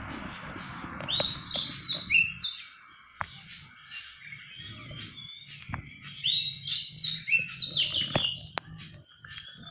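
A songbird singing in two runs of quick, high chirping notes, the first about a second in and the second around six seconds in, with a few sharp clicks in between.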